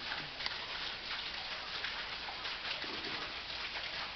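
Nunobiki Falls, a waterfall running at low flow, giving a steady splashing hiss of falling water.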